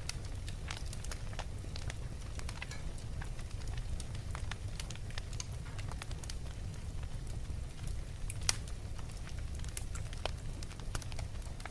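Wood fire burning in a fireplace: a steady low rumble of flames with irregular small crackles and pops, one sharper pop about eight and a half seconds in.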